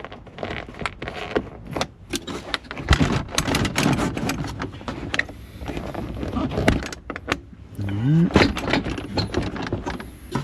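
Plastic engine cover panels being unclipped and lifted off: repeated clicks, knocks and scraping, clattering irregularly.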